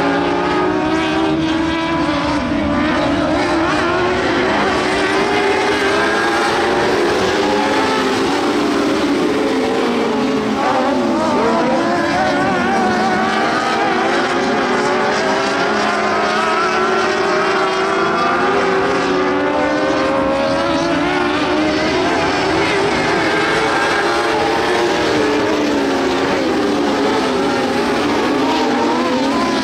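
A field of dwarf race cars running at speed, several high-revving motorcycle-type engines heard at once, their pitch rising and falling over and over as the cars accelerate and lift around the track.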